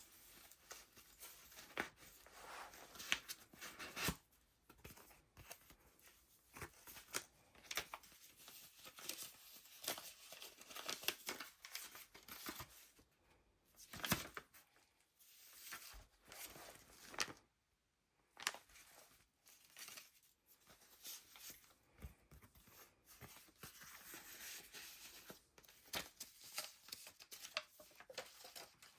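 Paper pages of a handmade junk journal being turned and handled: irregular paper rustling and crinkling with soft flaps and taps, broken by a couple of brief pauses.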